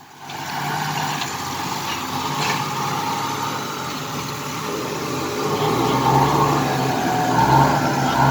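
Car engine running and revving under load as the car is driven out of a muddy pit, with a steady hiss in the background. The engine grows louder about five and a half seconds in.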